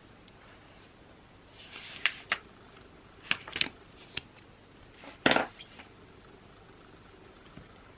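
Stationery and small objects handled on a desk: a brief soft rustle, then a string of sharp clicks and knocks, the loudest a little past five seconds in.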